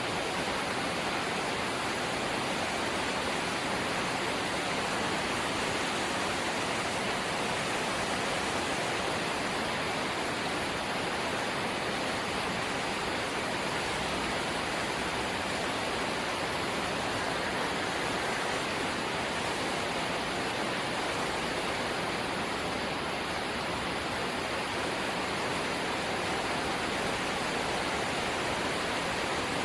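Light rain falling steadily, an even hiss with no breaks or separate drops standing out.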